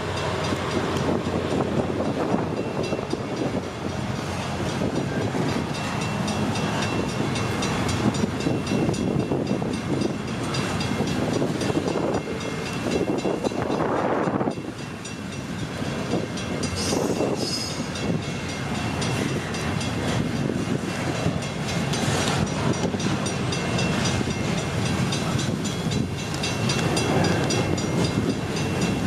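Double-stack intermodal container train rolling past close by: a continuous rumble and rattle of steel wheels on the rails and the well cars, easing briefly about halfway through.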